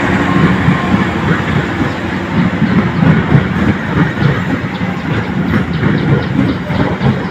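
Train running along the track: a steady rumble with wheels clattering irregularly over the rails.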